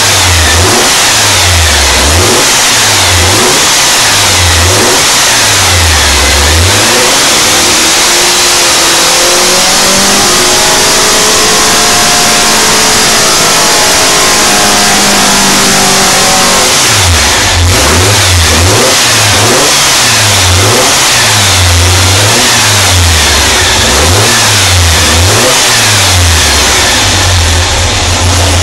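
2332 cc air-cooled Volkswagen-type flat-four with twin carburettors running at low speed with an uneven lope. About a third of the way in it is revved up in one long rising pull, held briefly, then let back down to a lumpy idle.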